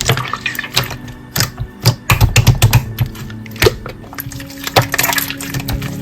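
Slime being pressed and squeezed by hand, giving rapid irregular clicks and pops, with soft background music underneath.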